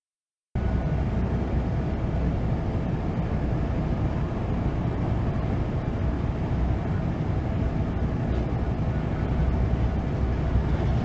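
Steady driving noise of a moving vehicle, a low rumble of engine and road with no distinct events, starting abruptly after a half-second silence.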